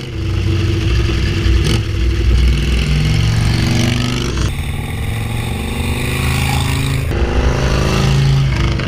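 Harley-Davidson Shovelhead V-twin engine of a custom 1976 FLH running under way on the road, its note rising and falling with the throttle over wind and road noise. The sound changes abruptly twice, about four and a half and seven seconds in.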